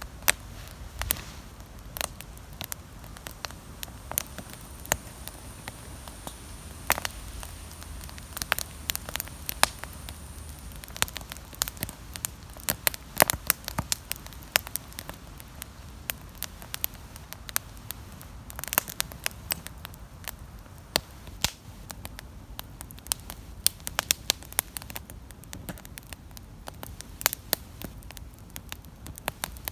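Wood campfire burning, crackling with many irregular sharp pops over a low steady rush. A faint high steady tone sounds for a few seconds early in the first half.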